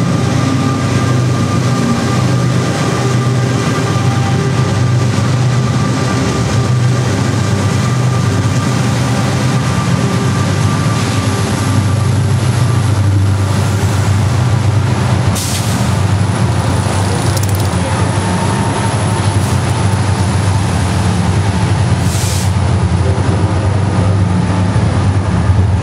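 Slow, heavy freight train with diesel locomotives passing close by inside a railway tunnel: a deep, steady engine drone, heavy and reverberant in the enclosed tunnel. Two short hisses cut through, about halfway through and again near the end.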